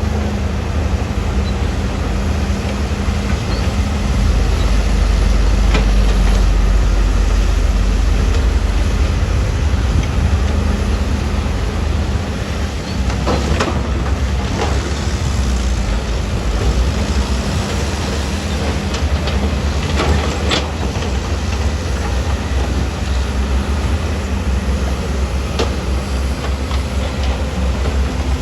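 Heavy diesel earthmoving machinery running with a deep, steady engine rumble that swells for a few seconds early on, broken by several sharp clanks.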